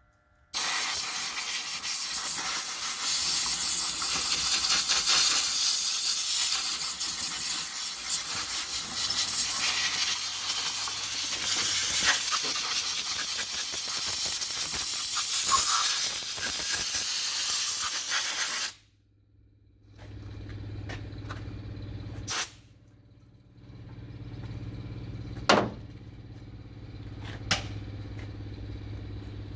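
A loud, steady spraying hiss starts about half a second in and cuts off suddenly after about eighteen seconds. Then a low hum is left, with a few sharp clicks and knocks.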